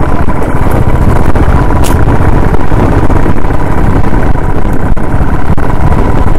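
Royal Enfield Classic 350's single-cylinder engine running steadily under way, heard loud from the rider's seat as the motorcycle climbs a mountain road.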